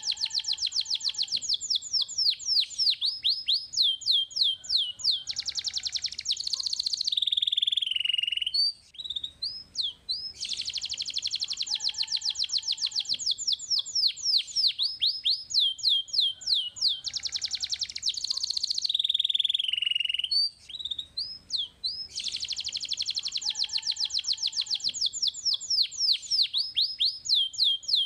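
Domestic canary singing: long runs of rapid trills and sweeping whistled notes, each phrase ending in a falling note. The same song phrase repeats about every ten seconds, as in a looped training recording.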